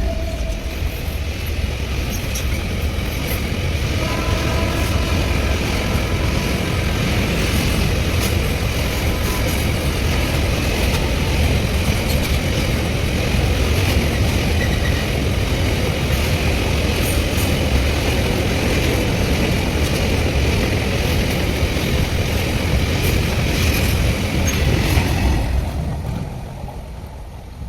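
A train running past at speed: a long steady rumble of wheels and coaches on the rails, dying away near the end.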